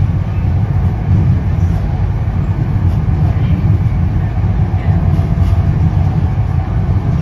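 Steady low rumble of an NJ Transit Comet passenger coach running at speed on the rails, heard from inside the passenger cabin.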